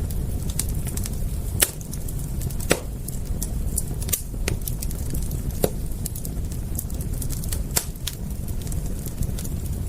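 Wood fire crackling, with irregular sharp pops and snaps, a few of them louder, over a steady low rumble.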